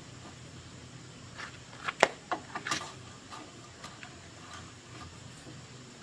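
Scattered sharp clicks and light taps of hand tools at repair work, the loudest a single sharp click about two seconds in, over a low steady hum.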